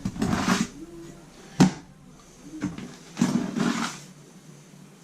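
Steel notch trowel scraping wet thinset mortar in two short scraping strokes, with a single sharp knock between them.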